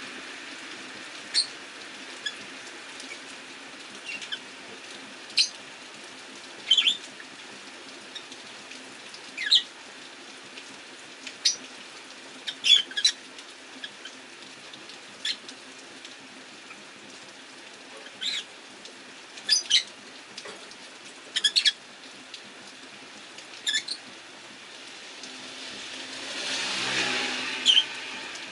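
Rosy-faced lovebirds giving short, sharp, high chirps every second or so over the steady hiss of rain. Near the end a broad swell of noise rises and fades.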